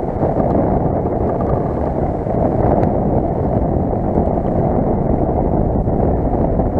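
Strong wind buffeting the microphone: a steady, loud, low rumbling roar with no breaks.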